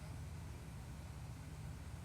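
Steady low rumble with a faint even hiss, with no distinct call or event standing out.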